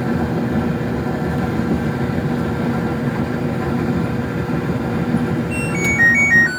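LG DLE7200WE electric dryer running after new drum rollers, idler pulley and drive belt were fitted: a steady drum rumble with a motor hum. Near the end, its control panel plays a short tune of electronic beeps that falls overall, as the dryer is switched off.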